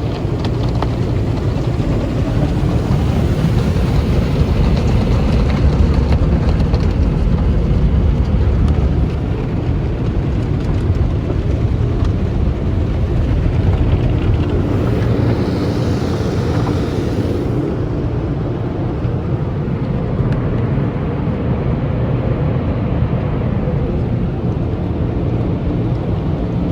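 Tunnel car wash equipment running over a car: a steady, heavy rumble of brushes and water. About fifteen seconds in, a brighter hiss joins and cuts off sharply a couple of seconds later.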